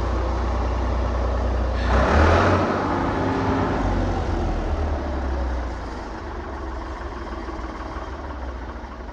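An engine running steadily with a deep hum, with a short burst of noise about two seconds in; the hum drops away after about six seconds.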